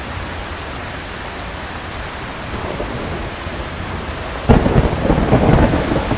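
Heavy rain falling steadily, with a low rumble building, then a sudden loud thunderclap about four and a half seconds in that rumbles and crackles on.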